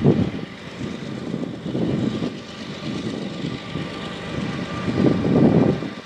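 A maintenance-of-way train backing away along the tracks, giving a continuous rumble that swells and eases unevenly, with a faint steady tone above it. The sound cuts off suddenly at the end.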